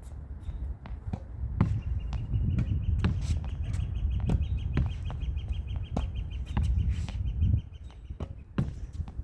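Tennis ball hit rapidly against a practice backboard from close range: a string of sharp knocks as the ball comes off the racket strings and the wall, about one or two a second. A faint high pulsing chirp sounds from about two seconds in until about seven and a half seconds.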